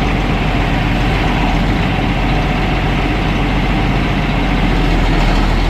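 John Deere 8640 tractor's six-cylinder turbo diesel engine running steadily, sounding smooth now that its exhaust leak has been fixed.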